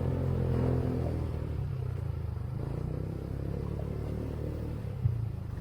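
A small vehicle engine running steadily, a little quieter after the first second, with one sharp knock about five seconds in.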